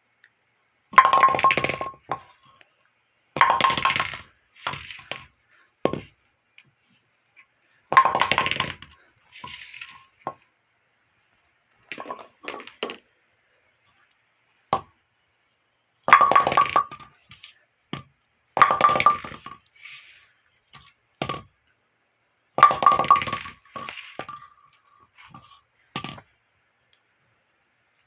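A big bowling pin being hit or knocked about: six loud, sharp clacks spread out, each with a brief ringing tone, and smaller knocks between them.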